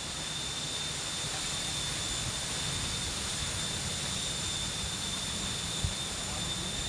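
Strong wind blowing, a steady rushing noise, with a faint steady high-pitched tone over it and one soft low knock about six seconds in.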